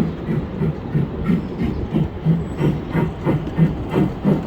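Train running along its track while being ridden, its wheels clattering in a steady rhythm about three times a second.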